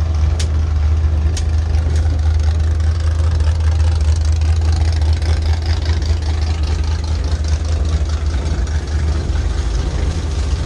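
Race car engine running with a steady low drone, and a couple of sharp clicks about half a second and a second and a half in.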